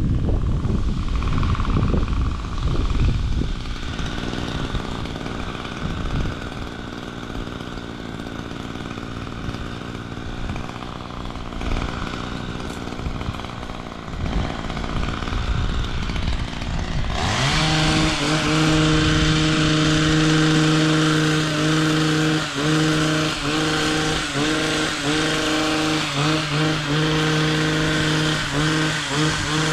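A low, noisy rumble for roughly the first half. Then, a little past halfway, a chainsaw's two-stroke engine comes in loud and runs steadily at high revs, with brief dips.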